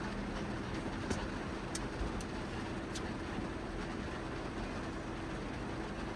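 Heavy rain drumming steadily on the roof of a kei van, heard from inside the cabin, with a few sharper drop hits standing out.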